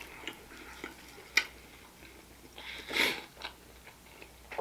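A person chewing food close to the microphone, with a few sharp mouth clicks and one louder, longer sound about three seconds in.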